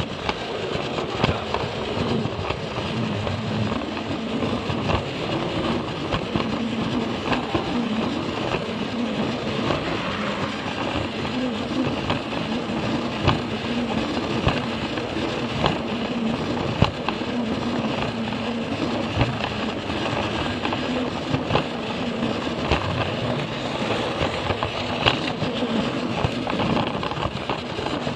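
Plarail toy train running on plastic track: the steady whir of its small battery motor and gears, with frequent irregular clicks as the wheels cross the track joints.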